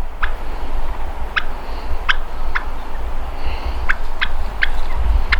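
Wild Merriam's turkeys calling: about eight short, sharp notes at irregular intervals, over a steady low rumble of wind on the microphone.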